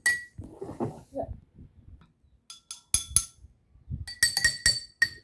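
Drinking glasses holding different amounts of water being tapped, each tap giving a short clinking ring. There are a few taps on a lower-pitched glass, then a quick run of taps on a higher-pitched one near the end.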